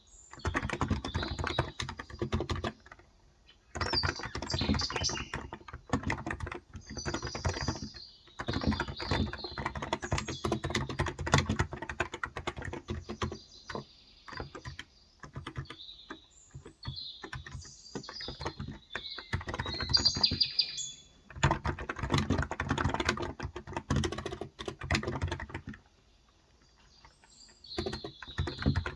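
Typing in runs of a few seconds on a Cox Endeavour electro-capacitive (contactless) tenkeyless keyboard with 35 g switches, pausing briefly between runs and for a couple of seconds near the end. Birds chirp throughout.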